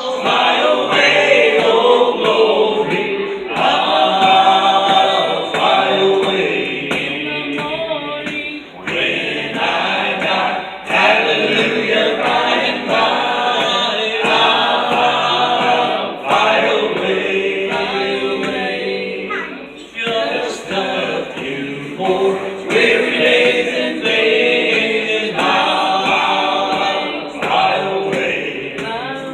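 A gospel group singing together, several voices in harmony.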